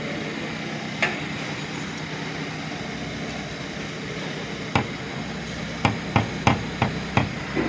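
A series of sharp knocks, a single one and then six more in quick succession, about three a second near the end, over a steady low hum.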